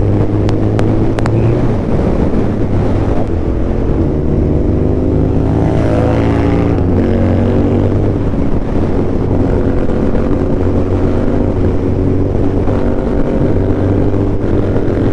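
Suzuki Hayabusa Gen 3 inline-four engine with an Akrapovic full-system exhaust, running under way. The pitch climbs under throttle about halfway through, then drops at an upshift and holds steady, with wind on the microphone.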